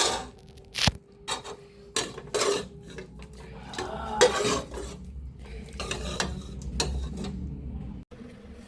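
Dishes and cutlery clinking and scraping in a series of irregular short knocks.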